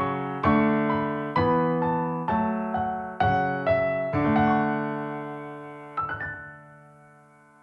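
Background music: slow solo piano, chords struck about once a second, ending on a last chord about six seconds in that rings and fades away.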